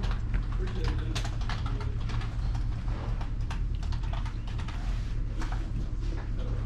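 Quick, irregular clicking, like typing, over the steady low rumble of a pickup truck cab on the road.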